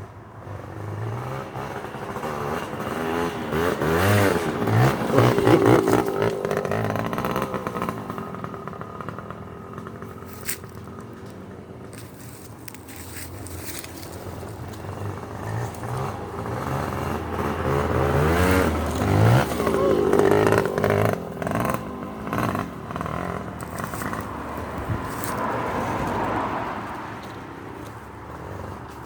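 Suzuki JR80 two-stroke dirt bike engine revving as it rides past twice, its pitch rising and falling with each pass, loudest about five seconds in and again about twenty seconds in.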